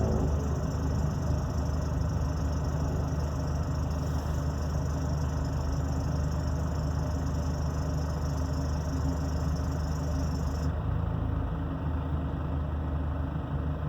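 2008 Nissan Frontier's MWM diesel engine idling steadily, its accessory belt driven through a worn belt tensioner that is close to failing. A high hiss over the engine cuts off about eleven seconds in.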